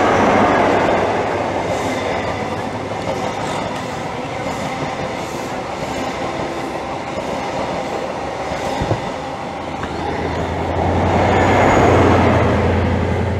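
Express passenger train passing through the station at speed: a loud rushing of wheels and air with rail clatter, easing slightly midway and swelling again near the end, where a low steady hum comes in.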